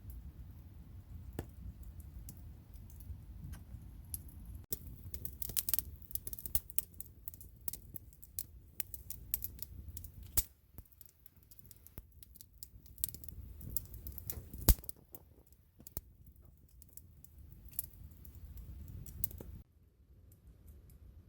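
Campfire crackling and popping: irregular sharp pops and snaps from burning wood over a low, steady rumble of the flames.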